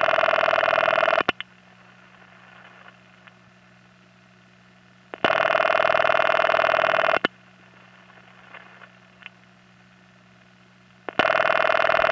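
Raucous telephone ringing tone heard over the line, as the caller hears it: a harsh, buzzy ring about two seconds long, coming three times about six seconds apart, with a low line hum between rings. This is the rare ringing sound of New York City's earliest automatic dial exchanges, still found on some 1970s calls.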